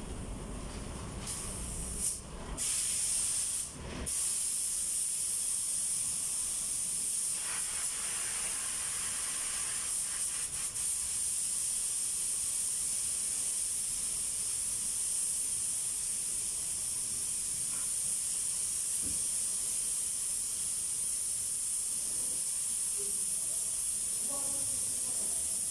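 Compressed-air paint spray gun hissing: a few short bursts as the trigger is pulled and let go, then a steady unbroken spray from about four seconds in.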